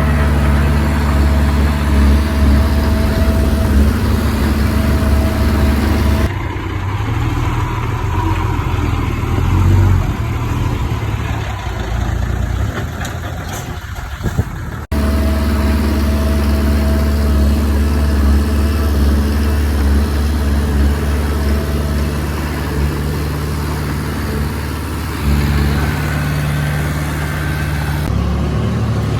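Diesel engines of earthmoving machinery running steadily at work. The sound changes abruptly about six seconds in and again about halfway through.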